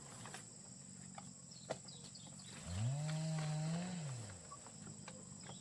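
A farm animal's long, low call, about three seconds in: it rises, holds, then falls away. Insects drone steadily behind it.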